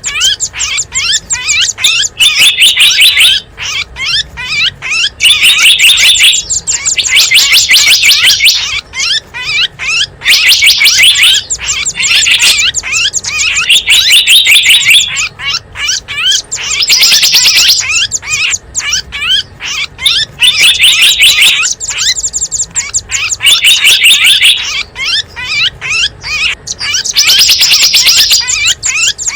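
Small wild songbirds in a bird-lure recording, chirping loudly and without pause: fast runs of sharp, high chirps broken by dense twittering bursts of about a second that recur every two seconds or so.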